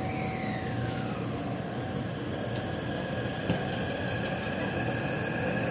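MRT train running with a steady rumble; its motor whine falls in pitch over the first second and a half, then steady whine tones set in, and a single click sounds about three and a half seconds in.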